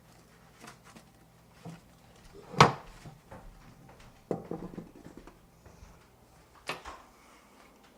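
A few scattered knocks and clatters: a sharp loud one about two and a half seconds in, a short rattling run a little after four seconds, and another knock near the end.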